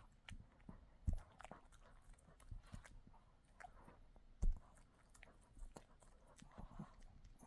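A dog chewing and gnawing on a dog chew, with irregular wet clicks and crunches and two heavier low thumps, about a second in and again around four and a half seconds.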